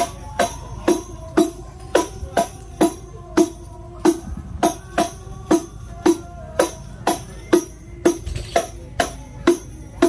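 Hadroh percussion being sound-checked: frame drums with jingles struck in a steady beat, about two strikes a second, each ringing briefly with a metallic jingle on top.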